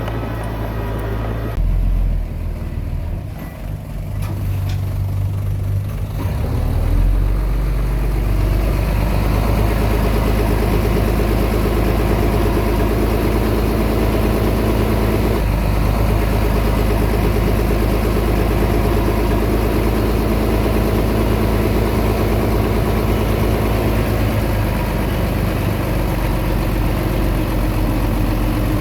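Komatsu D20P bulldozer's diesel engine running, settling into a steady drone about seven seconds in.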